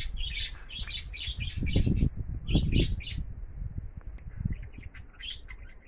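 Small birds chirping in quick, short calls. A low rumble on the microphone is loudest about two seconds in.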